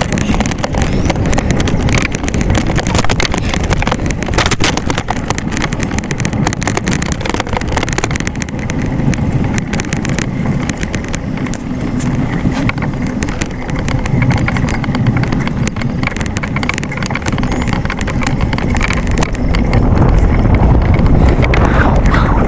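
Wind and road noise while riding a bicycle: a steady low rumble with frequent rattling clicks, growing louder near the end.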